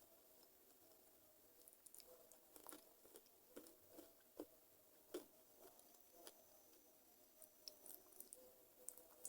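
Faint eating sounds of someone chewing chicken feet: scattered soft clicks, smacks and small crunches, busiest from about two seconds in.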